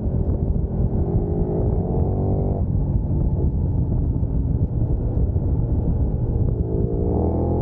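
Big sport motorcycle engine pulling hard under acceleration, its pitch climbing until it breaks off about two and a half seconds in at a gear change or roll-off, then running lower before climbing again near the end, over a heavy low rush of riding wind.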